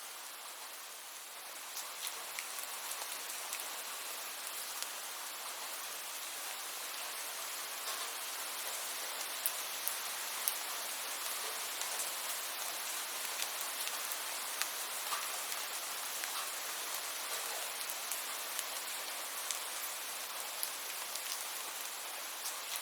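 Steady rain falling, an even hiss with many scattered drops tapping close by.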